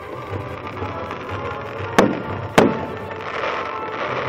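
Aerial firework shells bursting: two sharp bangs about half a second apart, two seconds in, followed by a dense crackling from glittering crackle stars. Music plays underneath.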